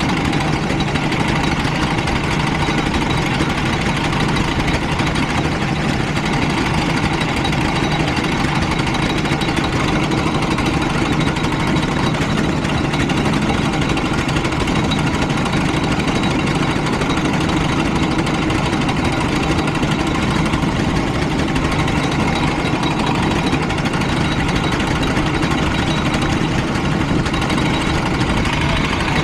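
Go-kart engine running steadily at a nearly constant speed, with no clear revving up or down.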